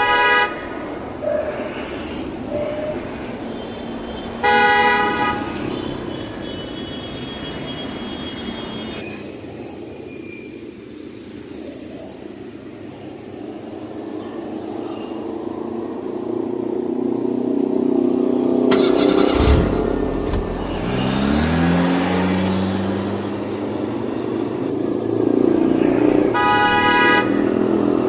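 Truck horn toots, short blasts at the start, about five seconds in and again near the end, over a running truck engine sound that rises sharply in pitch about twenty seconds in, like the engine revving up.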